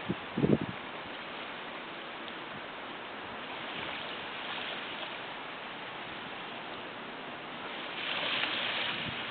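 Steady hiss of small waves washing on the shore, swelling softly about four seconds in and more strongly near the end. A few low thumps right at the start.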